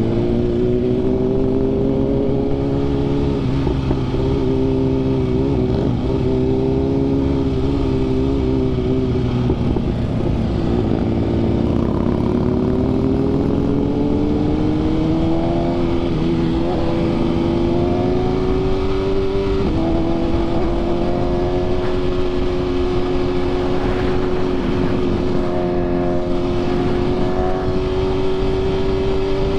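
BMW S1000RR inline-four sport bike, fitted with an SC Projects CRT exhaust and Arrow titanium headers, riding at speed: the engine note eases down, climbs steadily for several seconds, drops abruptly about two-thirds through, then holds steady. Wind rushes across the microphone throughout.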